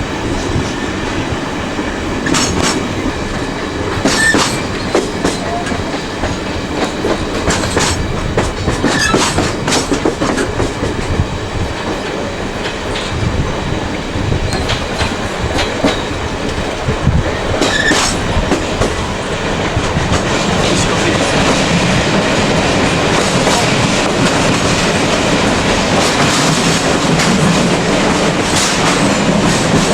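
Passenger train rolling along the track: a steady rumble of wheels on rail, with repeated clicks as the wheels cross rail joints. The running noise grows a little louder and steadier about two-thirds of the way through.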